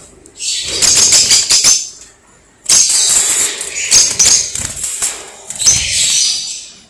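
Fischer's lovebirds chattering in shrill, rapid high chirps, in two long bursts with a short pause about two seconds in.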